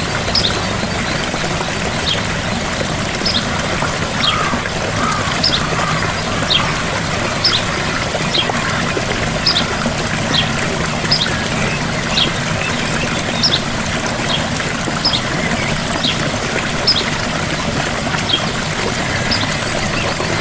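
Gentle waterfall: water pouring and trickling in a steady rush. A bird repeats a short, high, downward chirp about once a second.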